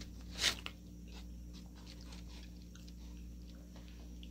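A person chewing a mouthful of sada roti and deer meat: faint, irregular wet mouth clicks and smacks, with one louder breath-like noise about half a second in, over a faint steady hum.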